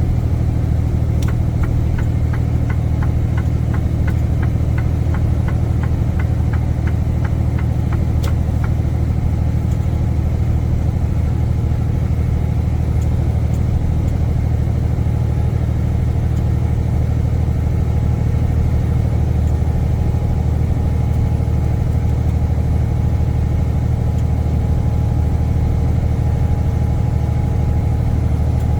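Semi-truck engine running steadily with road noise, heard inside the cab as a constant low drone. A quick, regular ticking, about three ticks a second, sounds for several seconds near the start.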